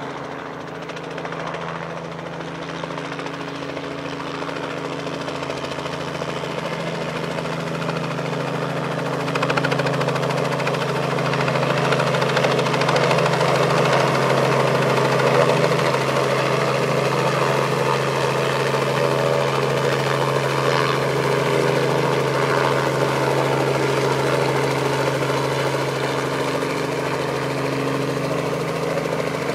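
An engine running steadily with an even drone, growing louder and stepping up about ten seconds in, then holding.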